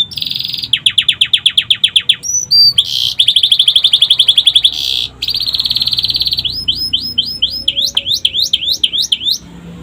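Domestic canary singing loudly, with phrases learned from the sikatan londo flycatcher. The song runs as a fast string of trilled phrases, each a rapid run of repeated notes lasting about a second before switching to another. It ends in quick swooping notes.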